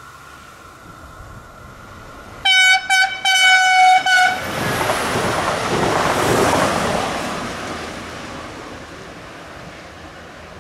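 Electroputere VFU Pașcani diesel multiple unit sounding its horn about two and a half seconds in: two short toots, then a longer blast. The train then passes close by, its noise swelling and fading away.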